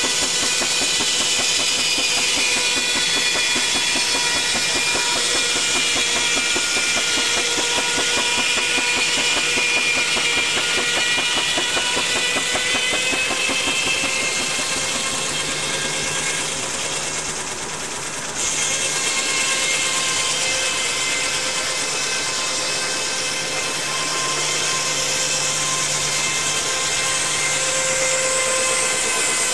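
A machine running steadily with a whine over a fast, even chatter, briefly losing its higher tones a little past halfway.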